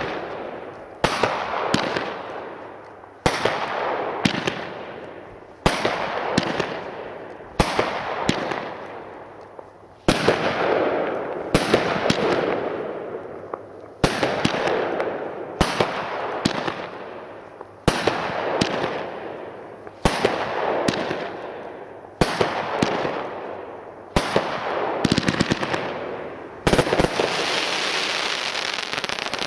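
A 36-shot firework battery firing large-calibre shells one after another, about one every two seconds. Each shot is a sharp bang that fades into crackle, and the last seconds bring a longer, continuous crackling hiss.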